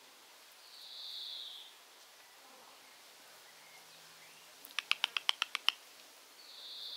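A small bird calling in a garden: a quick run of about nine sharp chips within a second, and two high, hissing notes about a second long, one near the start and one at the end.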